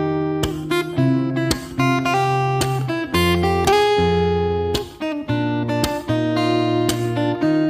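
Background music: acoustic guitar strumming chords, with new notes struck about every half second.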